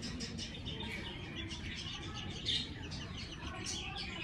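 Many small caged birds chirping at once, a busy run of short overlapping chirps, with one louder call about two and a half seconds in.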